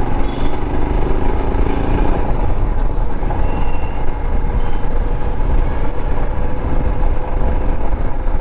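Royal Enfield Himalayan's 411 cc single-cylinder engine running steadily while riding, with heavy wind rumble on the microphone and road traffic around.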